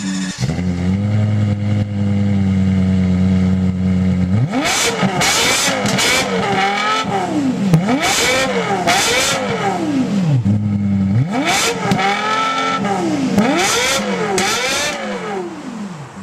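A car's engine and exhaust idling steadily, then revved hard again and again, the pitch climbing and dropping with each blip. It settles back to idle briefly before another string of revs.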